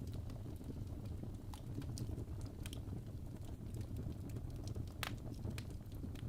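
Fireplace fire burning, a steady low rumble with irregular crackles and one louder pop about five seconds in.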